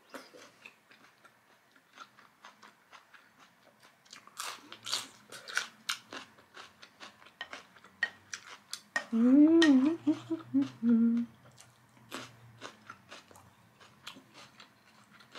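Close-miked chewing of a mouthful of grape tomato and bell pepper salad: many small wet crunches and mouth clicks. About nine seconds in comes a wordless hummed 'mmm' of enjoyment, rising and falling, lasting about two seconds.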